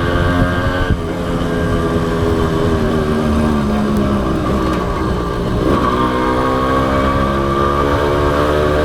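Honda CDI H100S motorcycle's small single-cylinder four-stroke engine running on the road. Its note slowly falls for the first few seconds, dips sharply about five and a half seconds in, then climbs steadily as the bike accelerates.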